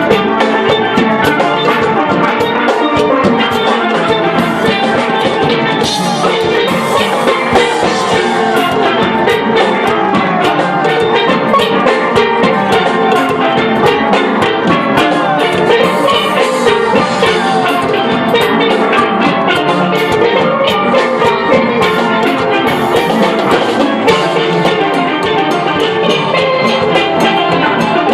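Steel band playing a lively tune on steelpans, with drums keeping a fast, steady beat.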